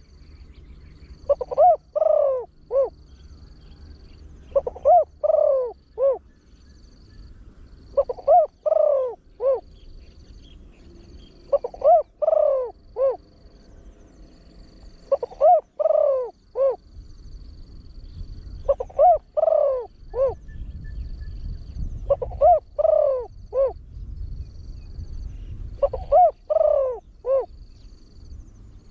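Spotted dove cooing, the deep-voiced call of a trained bird. A short phrase of several coos repeats steadily, about every three and a half seconds.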